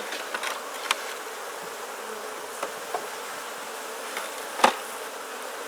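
Honeybees buzzing steadily around an open Langstroth hive, with a few sharp clicks and knocks, the loudest about three-quarters of the way through.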